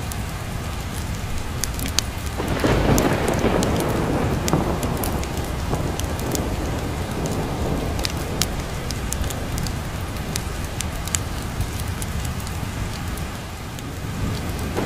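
Steady rain with a roll of thunder that swells about two and a half seconds in and fades away over several seconds, with another beginning to build near the end. Scattered sharp ticks run through the rain.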